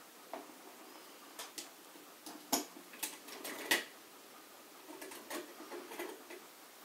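Scattered light clicks and taps of a small CPU and its plastic packaging being handled, with two sharper clicks about two and a half and nearly four seconds in.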